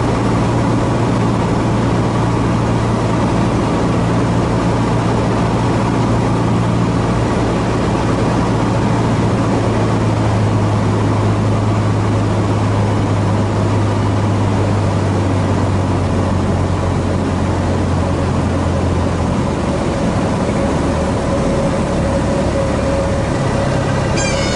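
Cessna 150H's four-cylinder Continental O-200 engine and propeller running steadily under a heavy haze of air noise, the engine note stepping lower in the second half as power comes back.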